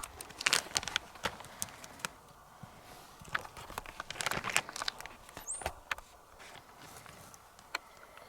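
Footsteps and rustling in undergrowth: irregular crackles and clicks of uneven loudness.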